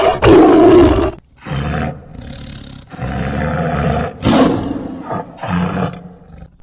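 Tiger roaring: one loud roar in the first second, followed by four shorter calls with pauses between them.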